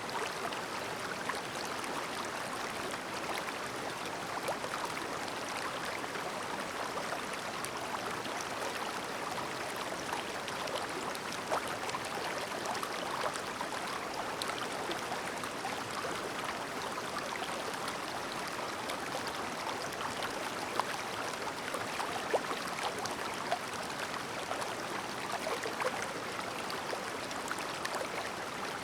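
A shallow, clear stream babbling steadily, with small splashes and water ticks now and then.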